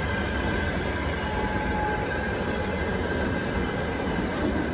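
Passenger train coaches rolling past on the rails: a steady rumble of wheels on track, with faint thin whining tones above it.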